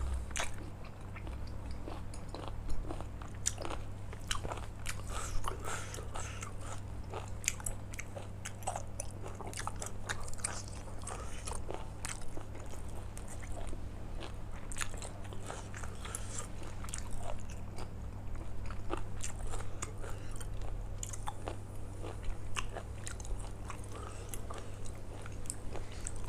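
A person biting and chewing food with mouth sounds and many short crunchy clicks throughout, a mouthful of seared beef, sticky rice and fresh vegetables.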